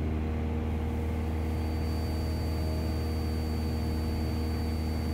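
Cessna 172SP's four-cylinder Lycoming engine and propeller droning steadily at cruise power, heard inside the cabin.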